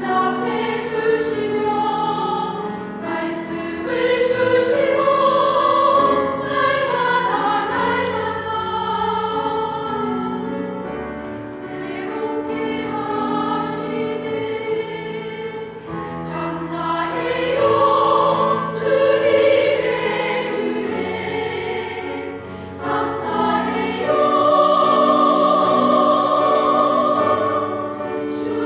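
Small church vocal ensemble singing a gospel song in harmony, with long held notes.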